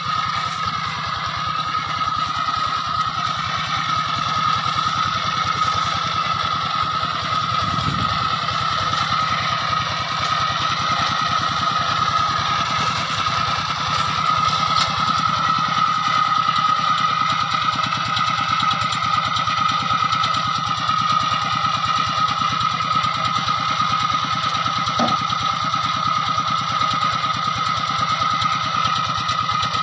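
Small engine running steadily at a constant speed, with a steady whine over its rapid firing beat.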